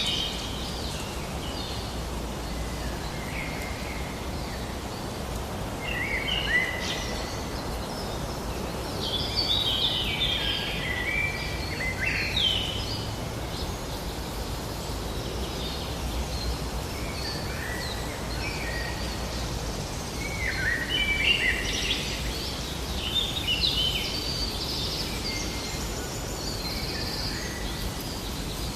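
Songbirds singing in chirping phrases over a steady background hiss of outdoor ambience; the song comes in bursts, a few seconds in, through the middle and again near the end.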